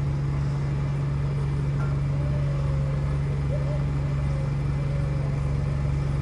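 Diesel bus engine idling at close range: a steady low hum and rumble that does not change.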